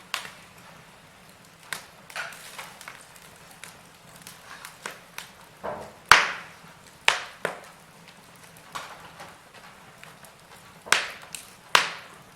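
Wood fire in a fireplace crackling, with irregular sharp pops over a faint hiss; the loudest pop comes about halfway through, with a couple more strong ones near the end.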